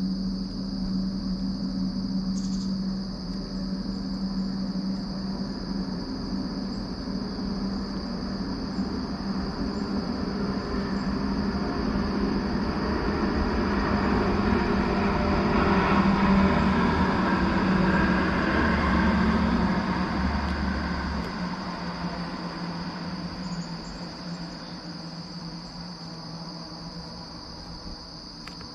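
A vehicle passing at a distance: a rumbling noise with a low hum that grows gradually, is loudest about two-thirds of the way through, then fades away. Crickets chirr steadily and high-pitched throughout.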